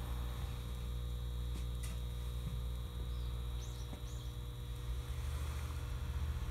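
Steady low electrical hum from a stopped 205-series electric train's onboard equipment, with a few faint high chirps a little past halfway.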